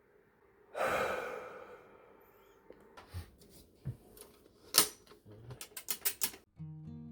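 A short hissing rush about a second in, then scattered sharp clicks and knocks, with a quick run of clicks near the end. Acoustic guitar music starts just before the end.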